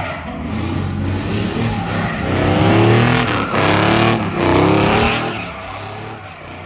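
A truck engine revving hard, its pitch rising and falling through the middle few seconds over a steady hiss of tyre noise, then easing off near the end.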